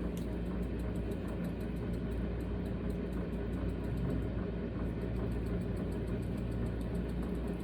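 A steady low hum, as of a motor or appliance, with faint quick ticking over it.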